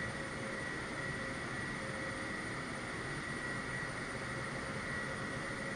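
Jet airliner engines running steadily, an even rushing noise with a thin high whine held on a constant note.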